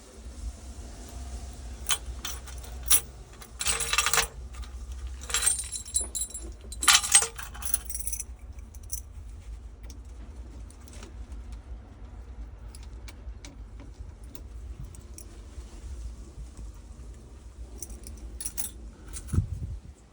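Metal clinking and jangling, with two louder rattling, scraping stretches about four and seven seconds in, over a steady low rumble.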